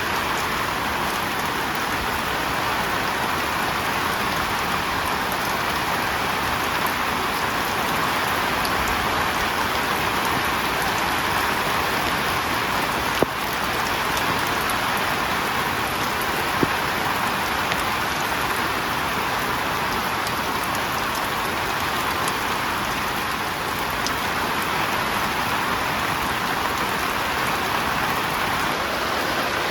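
Heavy rain falling steadily on a tent, an even hiss with no let-up. One brief sharp click comes about halfway through.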